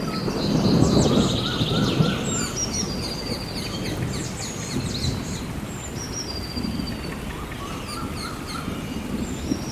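Rainforest ambience: a roll of thunder rumbles low and loud in the first two seconds, then fades under steady rain. Many birds call and chirp throughout in short whistles and trills.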